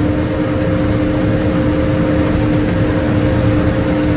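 Farm machine's engine running steadily, a low drone with a steady whine on top.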